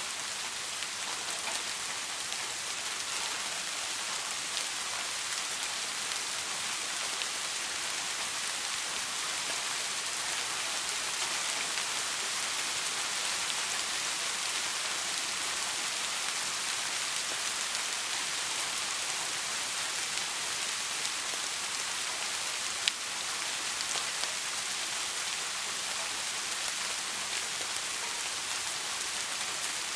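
Steady, soft rain with a dense hiss of drops and no thunder, and one sharp tap about three-quarters of the way through.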